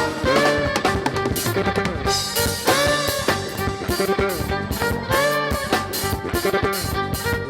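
Live band playing an instrumental afro-fusion passage: a steady drum-kit beat under a melodic lead line with bending, arching notes.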